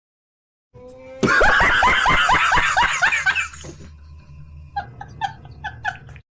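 A burst of human laughter: loud, rapid ha-ha pulses about four a second for some two and a half seconds, then softer short chuckles near the end, cut off suddenly.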